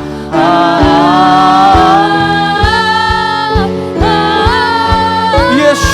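Gospel worship music: sung vocal lines held over a band with a steady beat of about two strokes a second.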